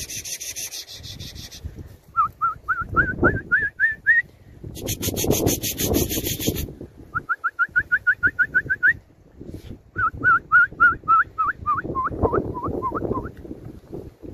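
A bird calling in three runs of short, rising whistled notes, several a second; the last run climbs and then sinks in pitch. Twice a dry, rapid rattle sounds, and wind buffets the microphone in low swells.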